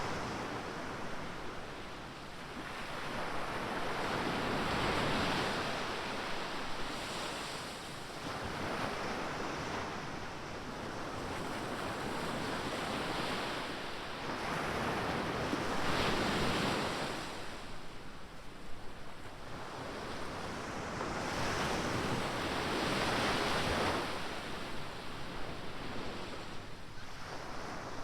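Ocean surf breaking on the shore, a wash of noise that swells and fades every few seconds as each wave comes in.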